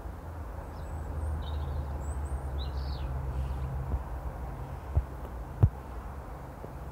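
A few short bird chirps over a steady low rumble, with two short thumps about five seconds in.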